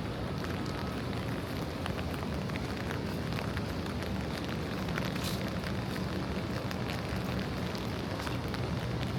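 Steady rain falling on wet city pavement, a dense crackling hiss with many small drop ticks, over a low rumble.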